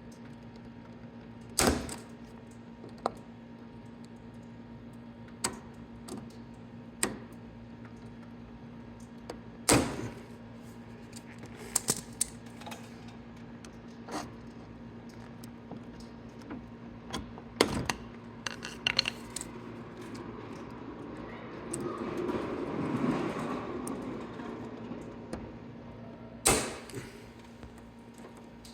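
Scattered sharp metal clicks and knocks of a hand tool prying at the flex ring (retaining ring) on a riding mower's wheel axle, with a few seconds of scraping about three-quarters of the way through, over a steady low hum.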